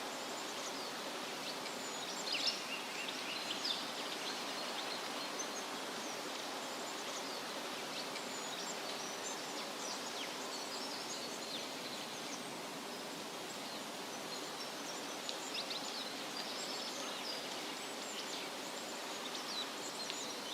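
Steady wind rustling through leaves, with small birds chirping and trilling on and off above it, most busily a few seconds in and again near the end.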